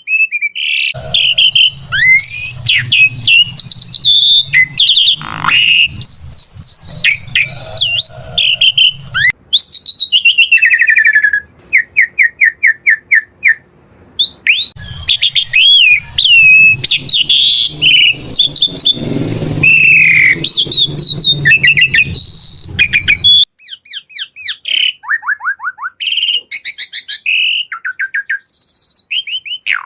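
Asian pied starling (jalak suren) singing a loud, varied song of whistles, sliding notes and chatter, broken by runs of quick repeated notes.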